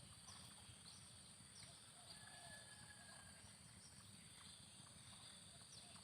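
Faint bird calls in the open: short high descending chirps repeating every half second or so, with a few lower arching calls. A steady high-pitched whine and a low rumble run underneath.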